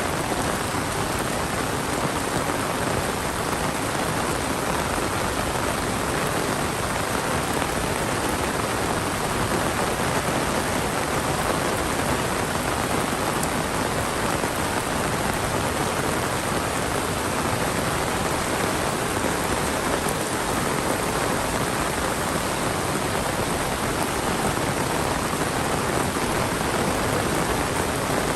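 Heavy monsoon rain pouring steadily, an even, dense hiss of drops that does not let up.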